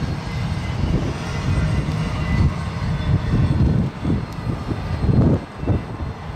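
Freight train cars rolling along the tracks: a steady, uneven rumble of wheels on rail.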